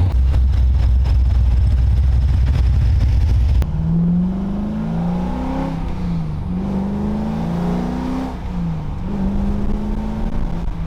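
A car's engine running with a loud low rumble, then after a cut, a car accelerating through the gears, its engine pitch rising and dropping back at each shift several times.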